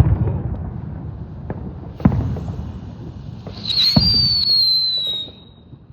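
Helicopter (chopper) firework burning on the ground without lifting off: a steady spraying hiss with three sharp cracks about two seconds apart, and a high whistle starting just before four seconds that falls slightly in pitch and fades out before the end.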